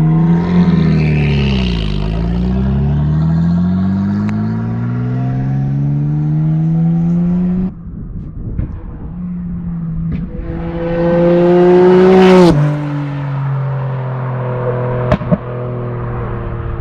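Nissan R32 Skyline GT-R's twin-turbo RB26 straight-six through a Group A-style exhaust, pulling through the gears: the engine note climbs, falls off sharply at an upshift about eight seconds in, climbs hard again and cuts off at a second shift near twelve seconds, then settles to a steady cruise. A few sharp pops come from the exhaust near the end.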